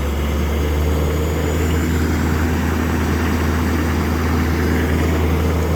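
2005 LLY Duramax 6.6-litre V8 turbodiesel idling steadily at its elevated cold-start idle, with a faint high turbo whine rising slowly over it.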